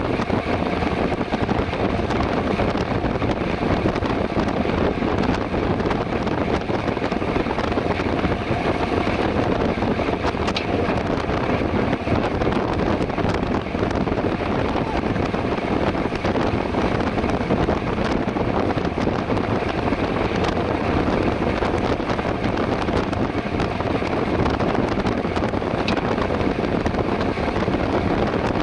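Steady wind rushing over the microphone of a camera riding along on a bicycle at race pace, with tyre and road rumble underneath.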